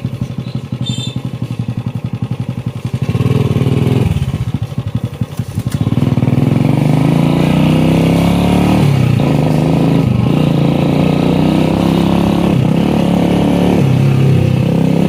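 Modified Honda CG125 cafe racer's single-cylinder four-stroke engine chugging at low revs, then pulling away and accelerating, the revs climbing and dropping back at several gear changes in the second half.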